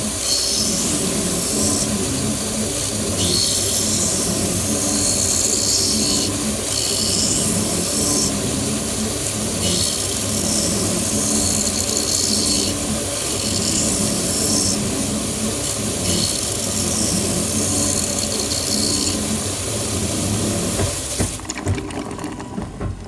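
Automatic optical lens edger cutting a spectacle lens down to a new frame shape: a steady machine noise with a hiss that swells and fades every couple of seconds as the lens turns against the cutter. It stops about 21 seconds in, once the lens is shaped.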